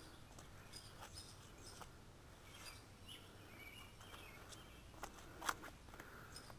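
Near silence: faint outdoor background with a few soft scuffs and clicks, the loudest a single sharp click about five and a half seconds in, and faint bird chirps in the middle.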